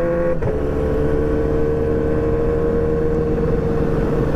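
Motorcycle engine running at a steady cruise, heard from on the bike. There is a brief break in the note about half a second in; it then holds steady and slowly drops in pitch, with a constant low road and wind rumble underneath.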